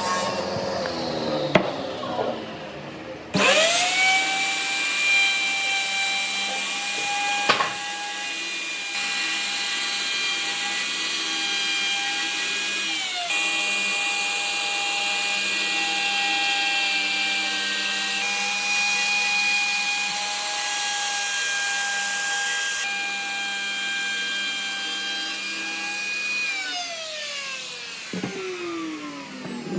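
Electric power tool switched on about three seconds in, spinning up fast to a steady high whine. It runs at a constant speed for over twenty seconds, then is switched off and winds down with falling pitch near the end.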